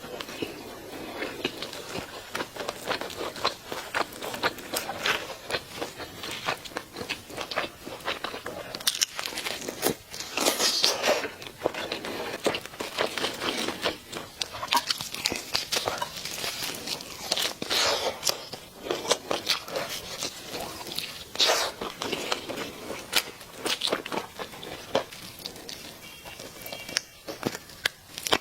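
Crispy fried chicken being bitten and chewed close to the microphone: a dense run of crackling crunches, with a few louder bites now and then.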